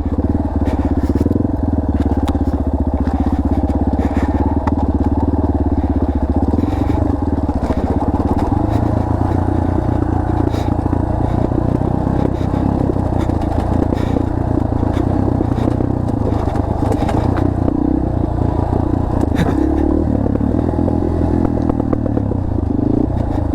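Dirt bike engine running fairly steadily throughout as it rides a rough trail, with scattered clicks and knocks over the top.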